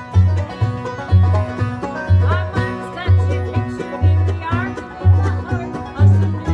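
Acoustic bluegrass jam band playing an instrumental: banjo and guitar picking over a steady two-beat bass line, with sliding melody notes a couple of times.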